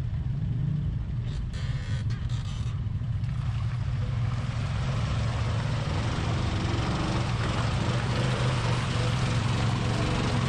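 ATV engine running steadily while riding into mud, with a broad rushing, hissing noise that builds from about four seconds in.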